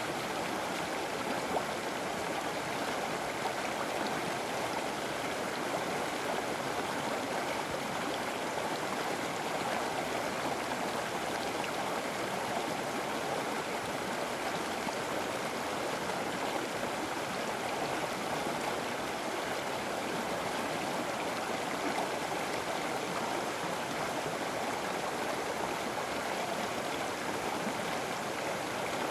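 A river flowing over rocks: a steady, even rush of water without a break.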